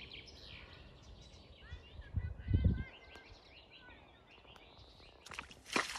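Birds chirping in short calls over faint outdoor background noise, with a brief low rumble about two seconds in and a few rustling noises near the end.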